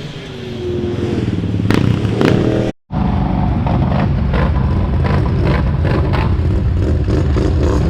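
Off-road vehicle engine revving up about two seconds in. The sound cuts out for a moment just before three seconds, then a steady engine drone with a rattling clatter runs on.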